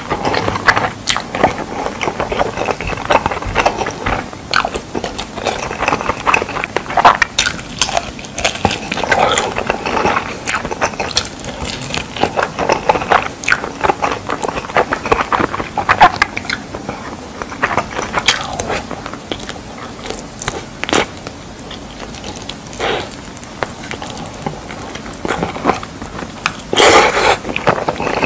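Close-miked chewing and biting of sauced fried pork, with many sharp clicks and crackles throughout and a louder burst near the end.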